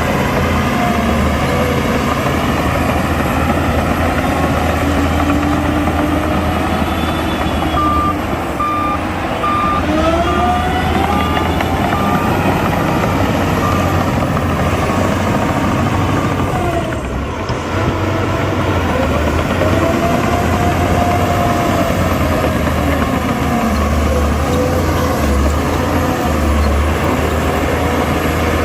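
Heavy diesel earthmoving machines running, engines revving up and down. A reversing alarm beeps steadily for several seconds in the middle.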